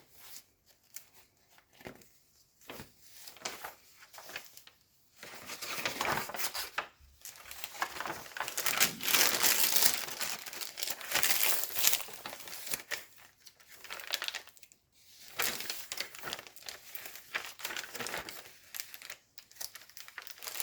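Pages of a thick handmade journal being turned and handled, with the rustle and crinkle of stiff coffee-dyed paper. The rustling comes in irregular spells, loudest and busiest in the middle.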